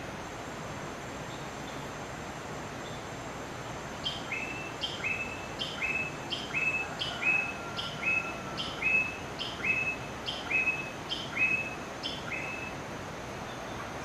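A bird calling a repeated two-part note, a short higher note dropping straight into a slightly lower one, about eleven times at a steady pace of a little over one a second, starting about four seconds in and stopping near the end. A steady hiss of outdoor background noise runs underneath.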